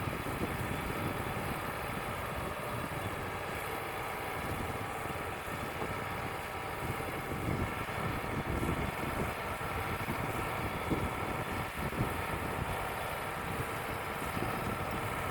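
Wood-Mizer LT35 portable bandsaw sawmill's engine running steadily.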